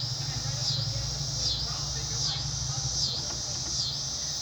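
High-pitched insect chorus pulsing in a regular rise and fall about once every 0.8 seconds, over a steady low hum.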